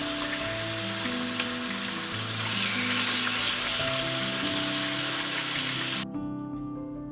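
Food sizzling and frying in a hot pan, a dense hiss that grows louder about two and a half seconds in and cuts off suddenly near the end. Soft piano music plays underneath.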